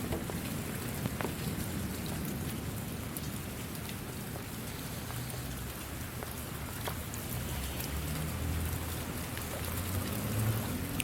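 Steady rain falling, a continuous hiss with scattered individual drop ticks. A low rumble swells from about eight seconds in.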